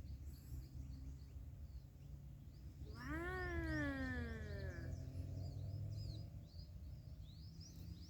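One long meow, about two seconds, rising briefly and then falling in pitch, about three seconds in, with small birds chirping throughout.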